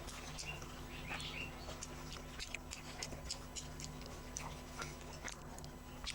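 Person eating and chewing close to the microphone: irregular small wet mouth clicks and smacks, over a low steady hum.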